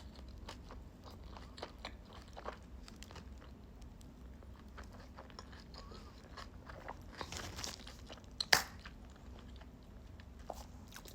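Close-miked eating of a turkey sandwich: small wet mouth clicks and crunches of biting and chewing come irregularly throughout, with one sharper click about eight and a half seconds in.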